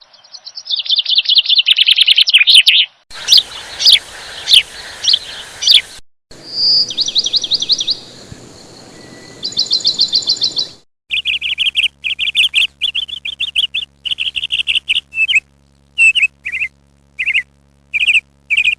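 Small birds chirping and trilling in rapid runs of high notes, in several different recordings joined by abrupt cuts. Near the end, the calls come as short separate chirps with gaps between them.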